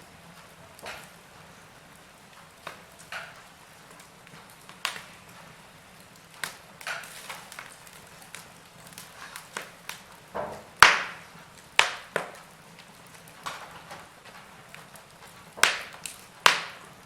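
Wood fire crackling in a fireplace: logs popping and snapping at irregular intervals, the loudest crack about eleven seconds in and two more sharp pops near the end, over a faint steady background.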